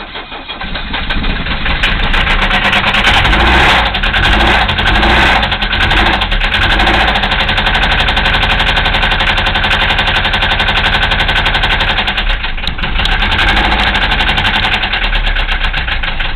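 Old Mercedes-Benz diesel engine running with a heavy rod knock, a rapid rhythmic knocking from inside the engine that marks a worn connecting-rod bearing. It is revved up over the first few seconds, then settles to a steadier run with a brief dip in level about twelve seconds in.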